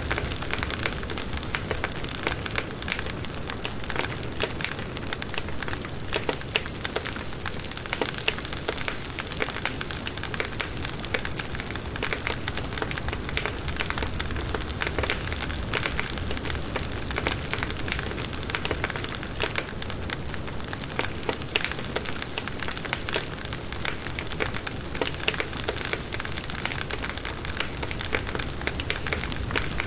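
Firewood burning in an open campfire, with a steady dense crackle and frequent sharp pops and snaps.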